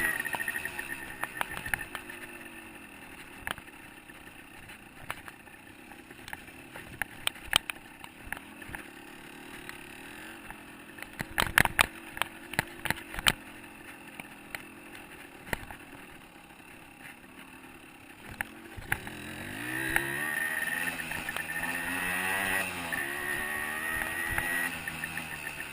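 125cc two-stroke dirt bike engine on a trail ride, revving up and down, then dropping to a quieter run through the middle. A cluster of sharp knocks and clatter comes about halfway through, and the revving picks up again in the last third.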